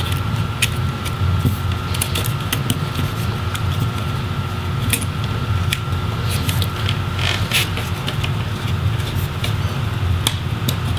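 Steady low hum of a fan or air conditioning, with scattered light clicks and rustles as a laptop's video cable is worked out of the plastic retaining tabs in the display assembly.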